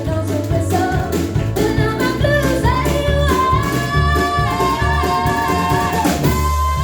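A live band playing a song, with a high melody line sliding between held notes over a steady, thumping low backing.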